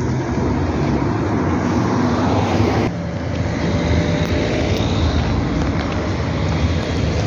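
A vehicle's engine running steadily with a low hum under rushing noise, as if heard from on board while moving; the sound changes abruptly about three seconds in.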